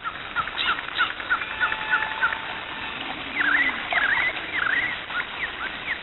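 Birds chirping: many short overlapping chirps and swooping whistled calls.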